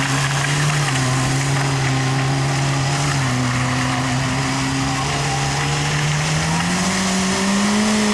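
Honda CBR600RR sportbike's inline-four engine held at steady revs during a burnout, its pitch stepping up about seven seconds in.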